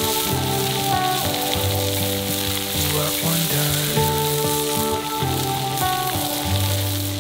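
Thin-sliced wagyu beef sizzling as it cooks over a campfire, heard as a steady frying hiss under instrumental background music.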